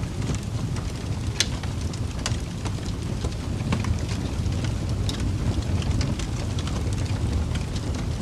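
Wood fire burning in a fireplace: a steady low rumble of flames with irregular sharp crackles and pops, one louder pop about one and a half seconds in.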